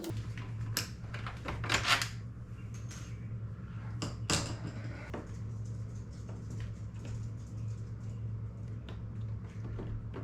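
Scattered clicks, taps and knocks of hand-work on a Maytag dishwasher door as screws and plastic panel parts are handled during disassembly. The loudest knocks come about two seconds in and again about four seconds in, over a steady low hum.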